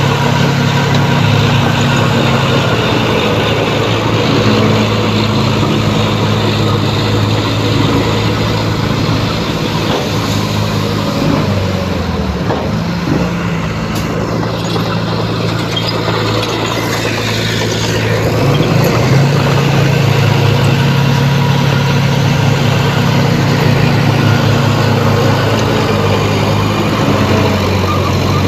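Heavy diesel engine of earthmoving machinery running hard and steadily, with a broad clattering noise over it. The engine pitch sags and recovers twice in the middle of the stretch.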